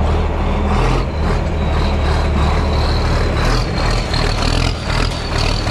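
Large engine running steadily at close range, with a steady high whine above the low engine note.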